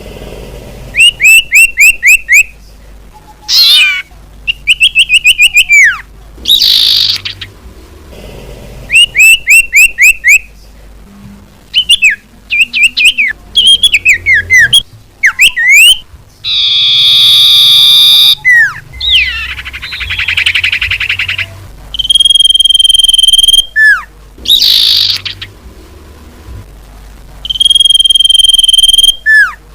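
Recorded calls of the common iora (cipoh) played as a bird-trapping lure: quick runs of short whistled notes, sweeping whistles, long steady whistles and a couple of harsh buzzy calls. The same sequence repeats over and over.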